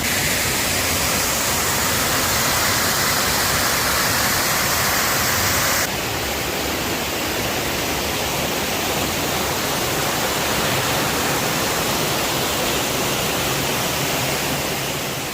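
Waterfall pouring into a pool: a steady, loud rush of falling water. Its tone changes abruptly about six seconds in, as at a cut to another spot, and it starts fading out near the end.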